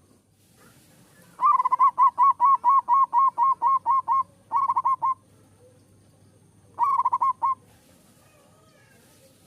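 Zebra dove cooing in full song: a run of about a dozen short, evenly spaced notes, then two quicker bursts of notes.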